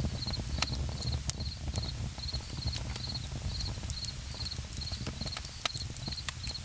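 Campfire crackling, with sharp irregular pops over a low rumble, while an insect chirps steadily about twice a second.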